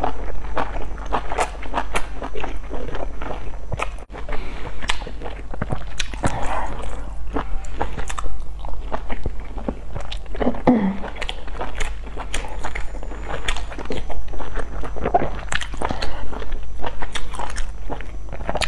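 Close-miked mouth sounds of a person chewing and biting into soft steamed stuffed buns: a dense, irregular run of small clicks, over a steady low hum.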